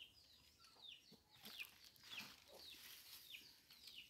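Small birds chirping faintly, a steady string of short peeps that fall in pitch, about three a second.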